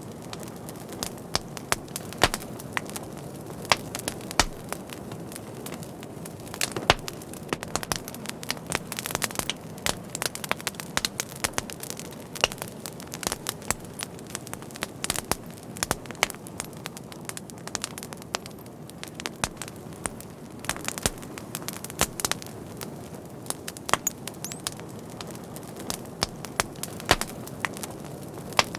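Wood fire crackling, with sharp irregular pops and snaps, several a second, over a steady low rush of flame.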